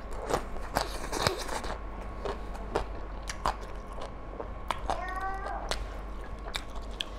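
Close-miked wet chewing and lip smacking as handfuls of mutton curry and rice are eaten by hand: a run of sharp mouth clicks throughout. About five seconds in there is a short pitched, bending vocal sound from the eater.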